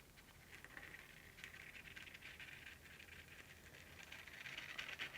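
Faint, continuous scratching of a marker or brush tip drawing circular rings on a painting board.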